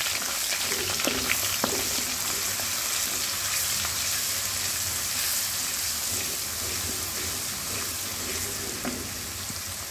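Garlic-ginger paste sizzling in hot oil in a pan while it is stirred with a spoon, with a few sharp clicks of the spoon against the pan about a second in. The sizzle eases slightly toward the end.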